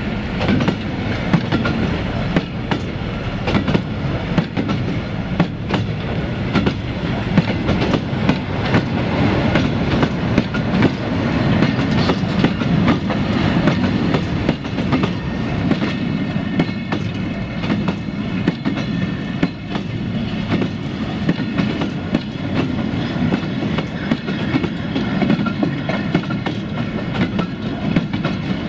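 Freight train silo hopper wagons rolling past, their wheels clattering over rail joints in a steady clickety-clack with many sharp metallic knocks.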